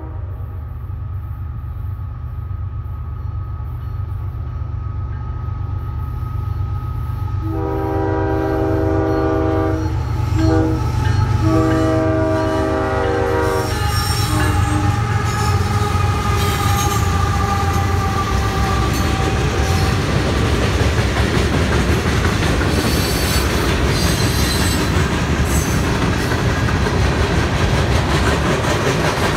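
Diesel freight locomotive approaching a grade crossing, its rumble growing louder. It sounds its horn in two long blasts and a short one about a third to half of the way in. Then it and a string of freight cars pass close by with a steady rumble and clatter of wheels on rail and some wheel squeal.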